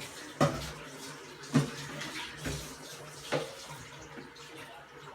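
Tomatoes and potatoes being dropped into a refrigerator's vegetable compartment: four separate knocks a second or so apart, with a faint rustle between them.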